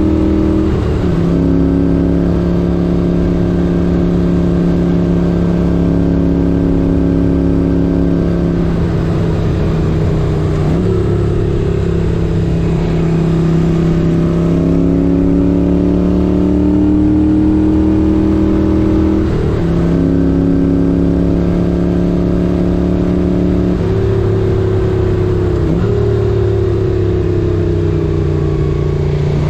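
1978 Moto Guzzi 850 Le Mans air-cooled V-twin under way, its note slowly rising and falling with road speed. The note breaks and jumps in pitch about six times as the gears are shifted.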